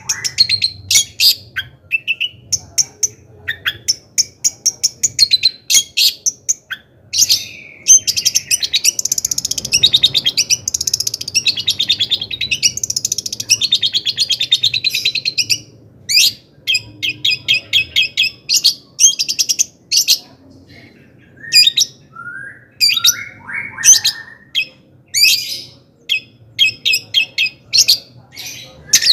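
A long-tailed shrike (cendet) sings a loud, varied song in full excitement. It runs through fast chattering trills, rapid even ticking series and harsh scratchy passages, with short gaps between phrases.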